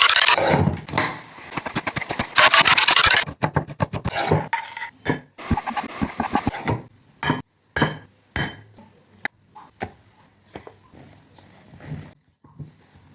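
Knife cutting vegetables on a wooden chopping board: two fast runs of rapid slicing strokes, the first at the start and the second about two and a half seconds in, then single separate knocks of the blade on the board, fading to small quiet taps near the end.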